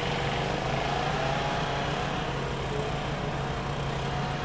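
Saab 96's V4 engine idling steadily, with another car's engine faintly rising and falling as it pulls away.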